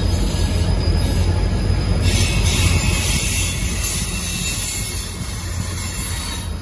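Freight train of tank cars rolling past: a steady rumble and rattle of steel wheels on the rails, with a hiss that grows brighter about two seconds in.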